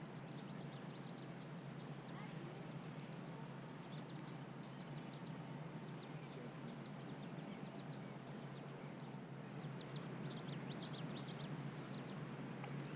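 Quiet ambience on a lake heard from a kayak: a steady low hiss with faint, scattered short high ticks, thickest about ten seconds in.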